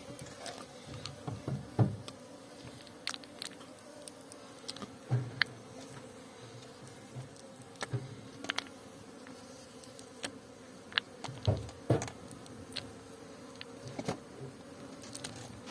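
Honeybees buzzing steadily around an open hive, with scattered sharp clicks and knocks throughout.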